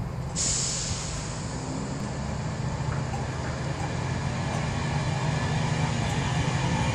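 Loco-hauled passenger train led by a Class 82 driving van trailer pulling away from a station: a steady low diesel hum with the coaches rolling past, growing slowly louder.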